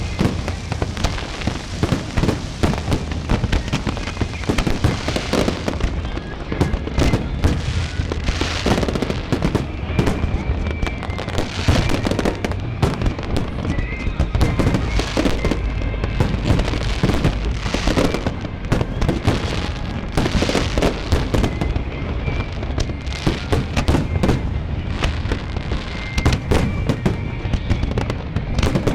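Fireworks display: a dense, continuous barrage of shell bursts, bangs and crackling, with many reports following closely on one another.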